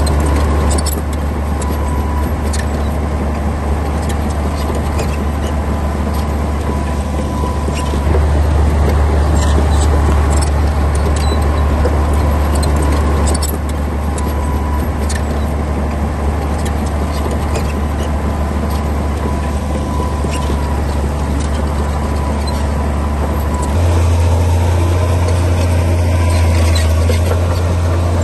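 Komatsu D60P bulldozer's diesel engine running under load, a steady low drone that rises in level about eight seconds in, eases off about five seconds later and rises again near the end as the load changes. Scattered faint clicks sound over it.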